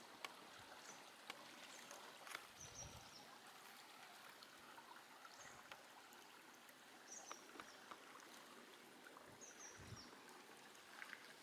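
Near silence: a faint steady ambient hiss, with a few faint clicks and brief faint high chirps.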